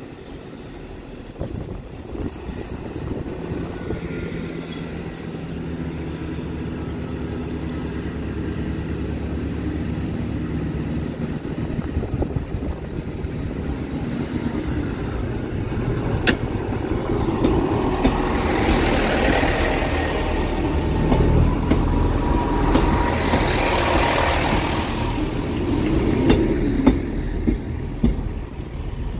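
A Class 158 diesel multiple unit passing over a level crossing. Its underfloor diesel engines hum, growing steadily louder as it approaches, then the rumble and rattle of wheels on rail swells as the carriages go by, with a few sharp wheel clicks.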